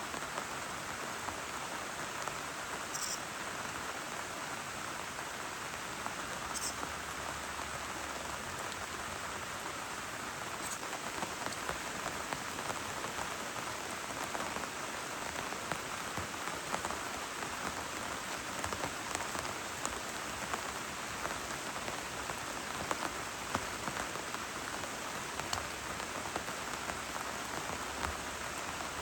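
Heavy rain falling steadily on a surface, with many single drops ticking close by.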